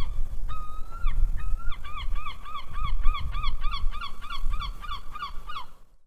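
A gull calling: two or three drawn-out cries, then a fast run of short yelping notes, about four a second, that stops just before the end. A low rumble runs underneath.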